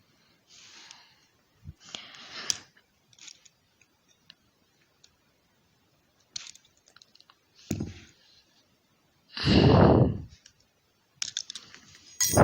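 Small plastic toy-train parts being handled: scattered clicks, snaps and scrapes, with one louder rushing scrape about two-thirds of the way through.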